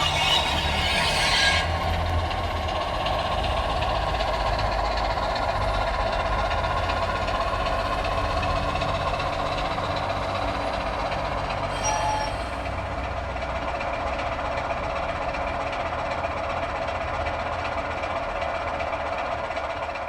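A train running steadily with a low rumble. A high wheel squeal fades out in the first second and a half, and a brief sharper sound comes about twelve seconds in.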